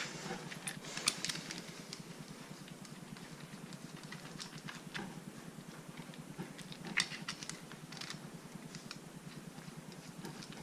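Scattered light clicks and clinks of small metal bolts and engine parts being handled and fitted by hand, with a few sharper knocks about a second in and near seven and eight seconds.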